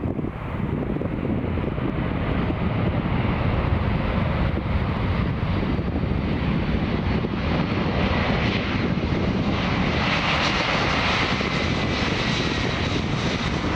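Boeing 777 GE90 jet engines running as the airliner flies nearby, a steady roar with a high whine that builds in the second half.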